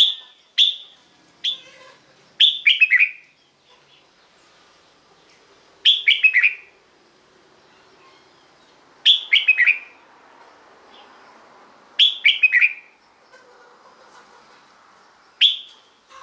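Red-whiskered bulbul singing short phrases of a few quick notes each, repeated about every three seconds with quiet gaps between. A faint steady high-pitched tone runs underneath.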